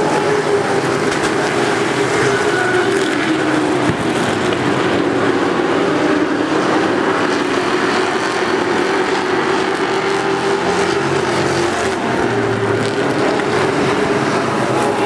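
NASCAR race trucks' V8 engines running at speed on the track: a loud, steady drone whose pitch wavers slightly up and down.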